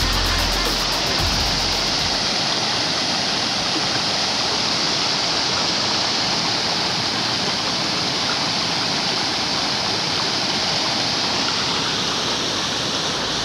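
Waterfall roar: a steady, loud rush of falling water with no let-up. Background music with a bass beat fades out in the first second or two.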